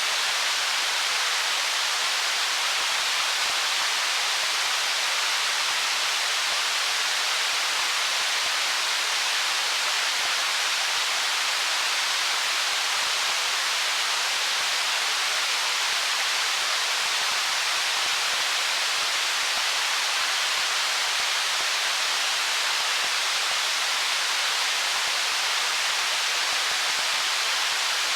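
Stream water flowing between stones: a steady, even rushing hiss that does not change.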